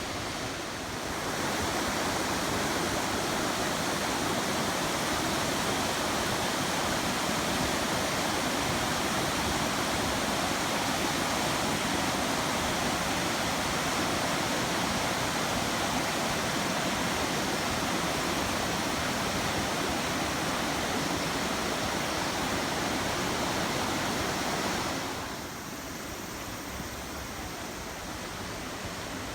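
River water rushing, a steady noise that gets louder about a second in and drops back near the end.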